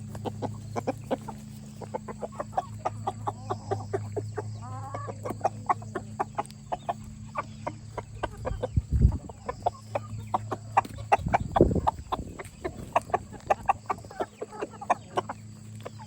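A flock of chickens clucking busily while feeding on thrown kitchen scraps, with many short, quick sounds throughout. A steady low hum runs underneath, and two low thumps come about midway.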